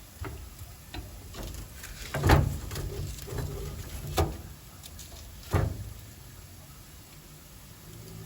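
A series of knocks and clatters from kitchen things being handled, the loudest about two seconds in, with sharper knocks about four and five and a half seconds in.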